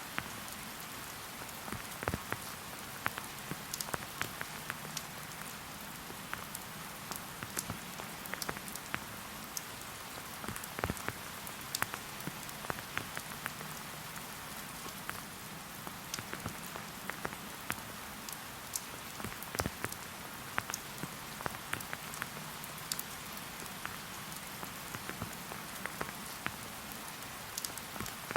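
Steady rain: an even hiss with many separate drops ticking sharply close by, scattered irregularly throughout.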